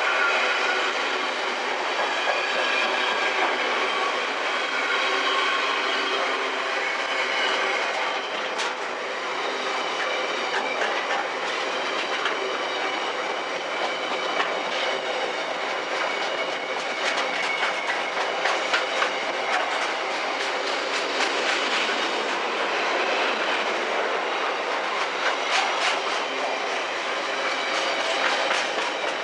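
Freight train passing, its wagon wheels clicking and rattling over the rail joints. High squealing tones sound in the first several seconds, and the clicks grow denser from about a third of the way in.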